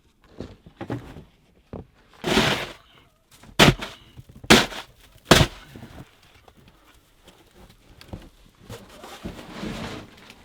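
A short scraping rush, then three sharp knocks or thuds about a second apart.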